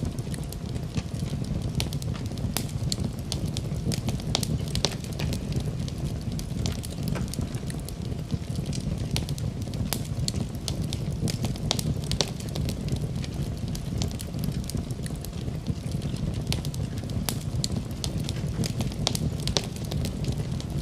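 Wood fire in a fireplace burning steadily, with a low rumble of flame and frequent irregular crackles and pops.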